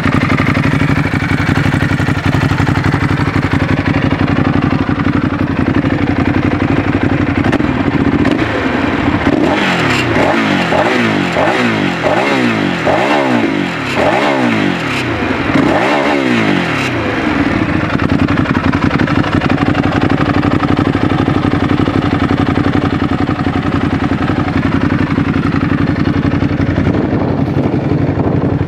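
2016 Ducati Hypermotard 821's V-twin idling, then blipped through about seven quick revs in a row that rise and fall back, before settling to idle again.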